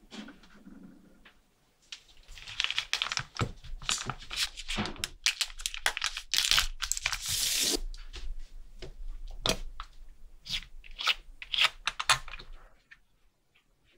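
Rustling and scraping handling noise broken by many sharp clicks, stopping about a second before the end.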